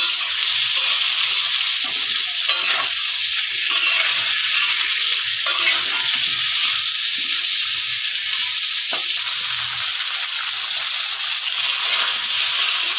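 Potato wedges and sliced onion sizzling in hot mustard oil in a wok, turned over and over with a metal spatula that scrapes along the pan. One sharp clink of the spatula on the pan about two-thirds of the way through.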